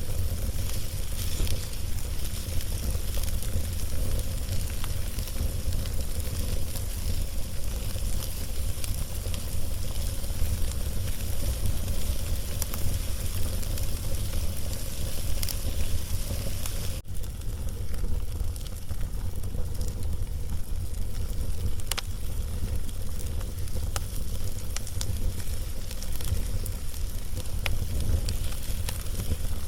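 Wood fire burning over a log, crackling steadily with scattered sharp pops over a hissing bed of sound, and a steady low rumble underneath.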